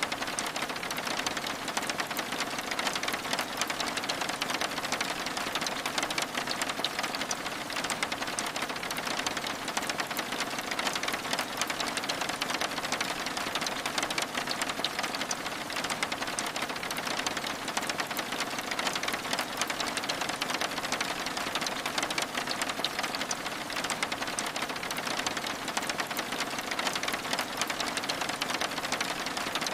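Steady rain, a dense, even patter of many fine drops on window glass.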